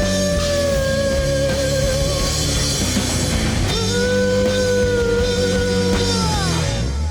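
A rock band playing live with distortion, drums and bass, under a long held lead note with vibrato that breaks off briefly and is held again. The second note slides down and the full band drops out near the end.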